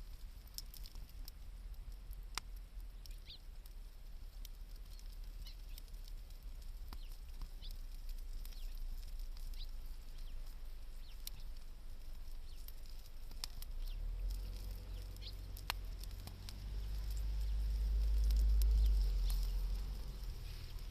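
Wood campfire crackling with sparse pops and snaps, with a few short bird chirps. A low rumble swells about fourteen seconds in and is loudest near the end.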